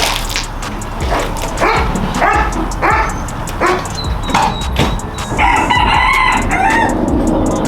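A rooster crowing: a few short calls, then one long crow about five and a half seconds in.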